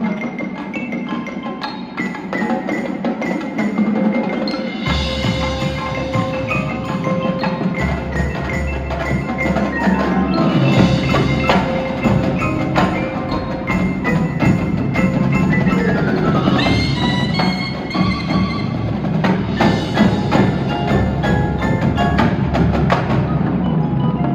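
High school marching band playing, with mallet percussion (marimba- and bell-like struck notes) and wood block prominent. A deep low bass comes in about five seconds in, and quick runs of notes sweep up and down near the middle.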